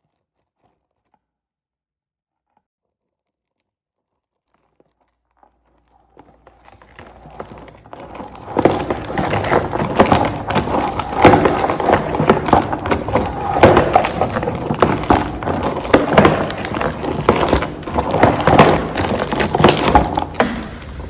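Crackling, crunching noise picked up by a microphone inside a miniature volcano sculpture, the 'tectonic' sounds from its mouth. After about six seconds of near silence it fades in over a low rumble and grows loud, a dense run of sharp cracks and knocks.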